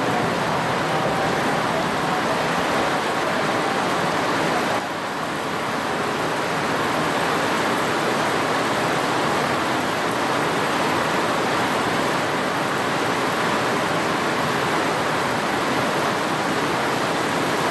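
Heavy typhoon rain pouring down, a loud, steady rush of noise that dips slightly about five seconds in.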